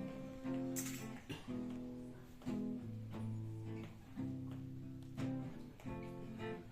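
Acoustic guitar playing a slow intro, one chord or set of notes struck about once a second and left to ring.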